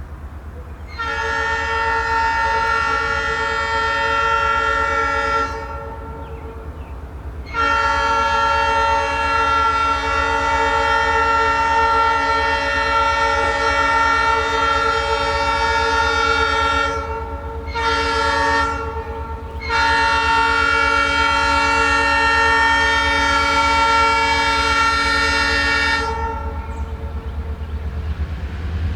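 Locomotive air horn blowing the grade-crossing signal: two long blasts, a short one, then a final long one. Under it runs a steady low rumble.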